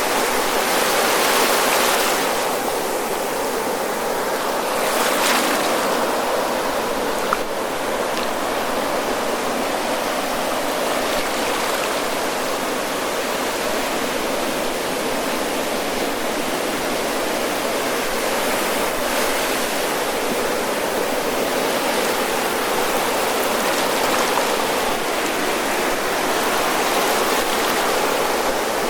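Ocean waves breaking and washing up the shore, a continuous roar of surf that swells briefly near the start and again about five seconds in.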